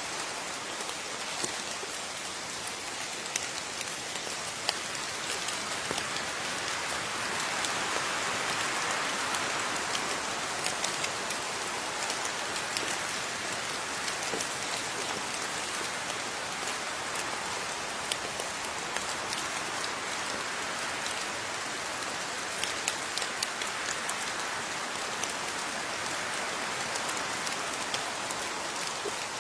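Steady rain falling, with individual water drops pattering close by. The rain swells slightly about a third of the way in.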